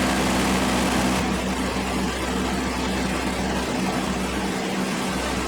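Iseki TK527 compact tractor's diesel engine running steadily while driving a rear-mounted Sentar topper mower through grass.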